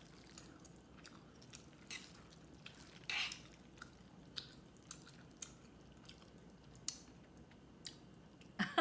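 Close-miked chewing of jjajangmyeon noodles in thick black-bean sauce: scattered soft wet clicks and smacks, a few a second, the clearest about two and three seconds in.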